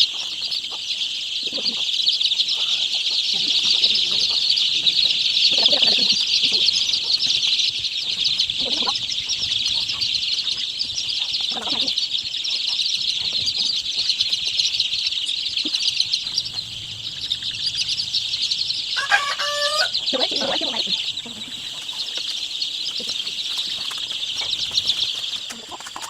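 A crowd of young chickens peeping together in a dense, continuous chorus, with scattered low clucks from older birds. One longer wavering call comes about three-quarters of the way through.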